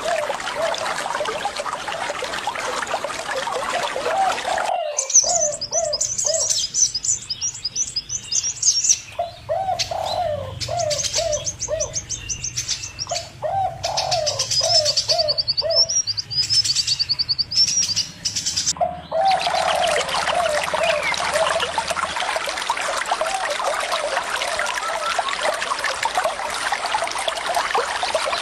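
Running water with a bird repeating a short low call in quick series. In the middle the water noise drops away, and fast high chirping trills from small birds join the low calls before the water returns.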